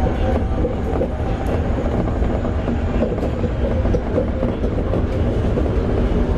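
Toei 5300 series electric train, with Mitsubishi GTO-VVVF traction equipment, running along the line and heard from inside a car. A steady, loud rumble of wheels on rail carries faint steady tones and a few light clicks.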